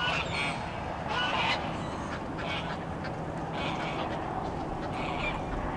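A duck quacking: about five short calls spaced roughly a second apart over a steady background hiss.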